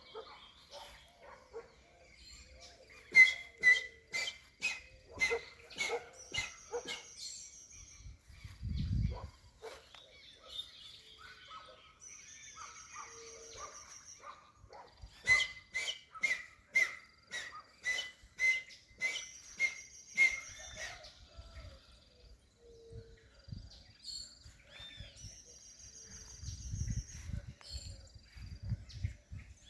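Saracura wood-rails calling in two loud bouts, each a fast run of repeated loud notes about two a second and lasting some five seconds, the first about three seconds in and the second about fifteen seconds in. Between the bouts smaller birds sing, with short high buzzy trills.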